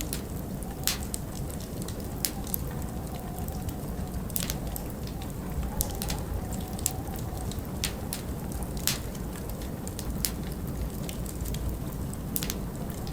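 Wood fire crackling in a fireplace: irregular sharp pops and snaps, about one a second, over a steady low rumble of wind and burning. A faint wavering wind whistle runs through the first half.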